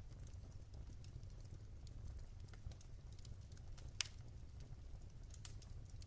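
Wood fire in a fireplace crackling softly: scattered small snaps and one sharper pop about four seconds in, over a low steady rumble.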